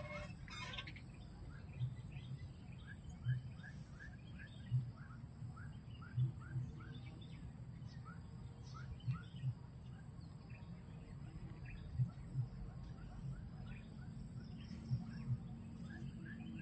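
A bird calling with a run of short rising chirps, about two a second, over background noise, with short low thuds coming every second or two.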